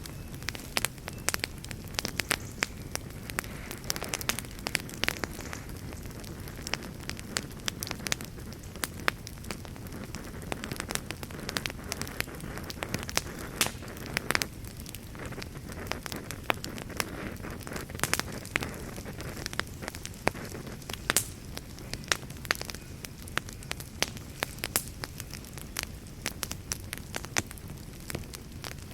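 Wood fire burning in a fireplace: a steady low rumble of flames with dense, irregular crackles and sharp pops from the burning wood.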